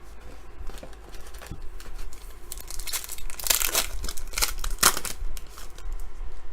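Plastic wrapper of a basketball card pack being torn open and crinkled, in a run of crackling rips that is loudest in the middle, with small handling ticks around it.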